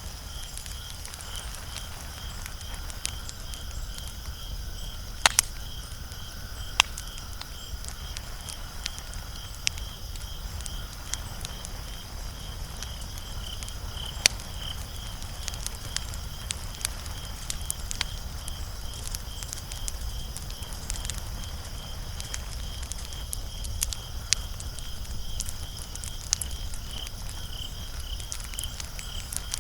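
Wood fire crackling, with frequent small pops and a few sharp, louder snaps, over a steady high pulsing chirr.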